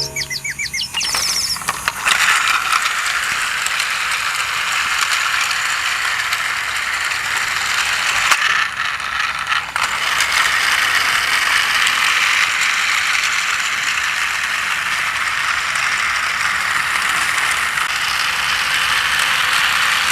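Battery-powered toy train's small electric motor and plastic gears running steadily, with a fast, even whirring clatter. A brief chirpy electronic tone plays in the first couple of seconds.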